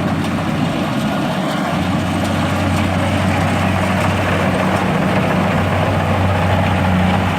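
Heavy engine running steadily at constant speed, a low even hum.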